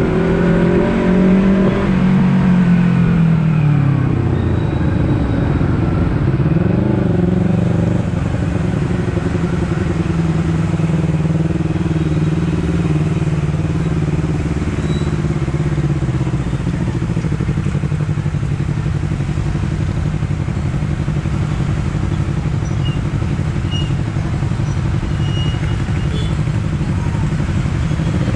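Honda CBR250RR parallel-twin engine running under way: the revs fall about two seconds in, rise and fall a few times over the next few seconds, then hold a steady cruise.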